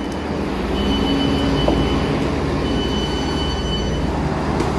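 Passenger train running, heard from inside the carriage: a steady low rumble and hum, with a thin high whine that comes in twice.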